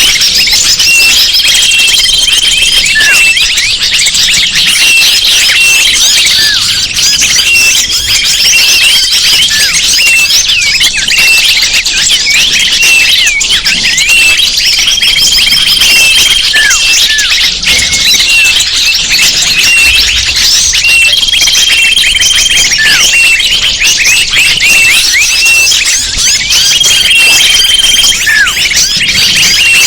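Bird-lure recording of a dense chorus of many small birds chirping and twittering nonstop. A short, steady, high whistle note is held and repeated every few seconds through the chatter.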